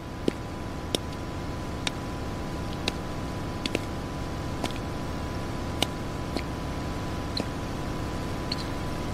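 Steady outdoor ambience with a low rumble, broken by irregular sharp ticks about once a second, and a faint steady high hum.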